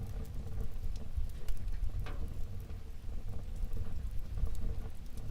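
Wood fire burning in a fireplace, crackling with scattered small pops over a low steady rumble of the flames, with one louder pop about two seconds in.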